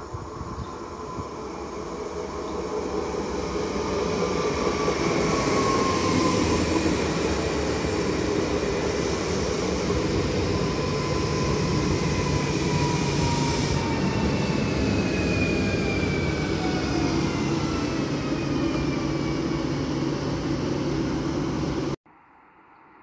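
Regional electric multiple unit train approaching and running past on the track. Its rumble builds over the first few seconds, then holds, with a whine that falls slowly in pitch. The sound cuts off abruptly near the end.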